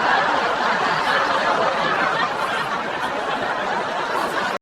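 A crowd laughing together, a dense steady wash of laughter and murmur that cuts off abruptly near the end.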